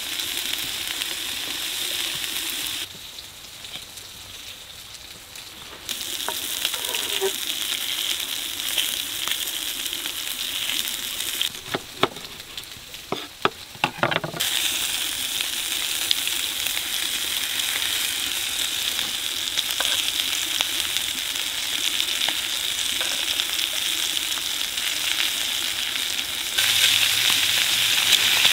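Food frying in a pan, a steady sizzle that drops away abruptly twice for a few seconds, with a few sharp clinks in the second lull.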